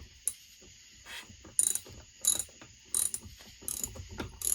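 Socket ratchet clicking in about half a dozen short bursts as it turns the chainsaw engine over, rolling the piston past top dead centre to crush solder for a squish check.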